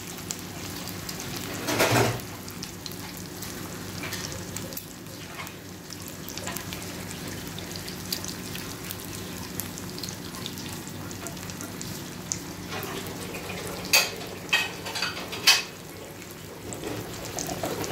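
Eggs and vegetables sizzling steadily in a frying pan, an omelette frying. A few sharp knocks cut through it, once about two seconds in and twice near the end.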